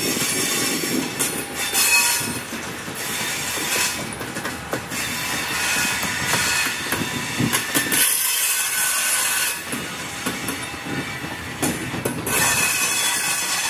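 Train cars rolling past, steel wheels clicking over rail joints with some high-pitched wheel squeal.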